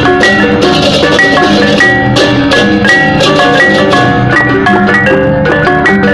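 Balinese gamelan music: ringing metal-keyed mallet percussion playing a quick, dense run of notes over steady drumming.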